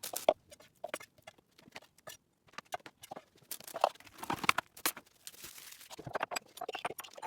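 Kitchen prep handling: irregular clicks, taps and knocks with brief rustles and scrapes, as raw chicken pieces and utensils are moved into a bowl.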